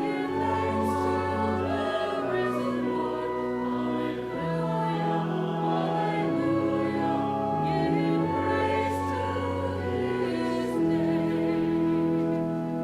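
Church choir singing slow, sustained chords over a low instrumental accompaniment, the bass note changing every couple of seconds.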